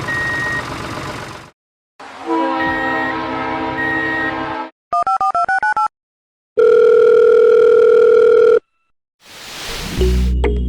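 A string of edited electronic sound effects separated by short silences. First comes a rumbling, noisy stretch with short high beeps. Then a quick run of about ten beeps alternating between two pitches, a steady tone held for about two seconds like a telephone dial tone, and a whoosh that swells up into music near the end.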